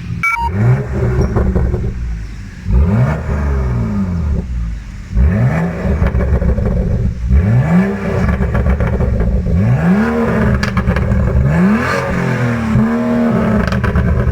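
BMW with a modified, louder exhaust revving hard about six times in a row, the engine note rising in pitch with each rev and dropping back between them.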